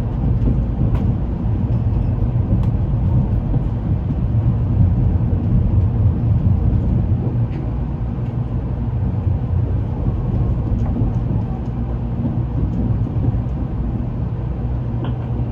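Steady low rumble of a Shinkansen train running, heard inside the passenger car, with a few faint clicks.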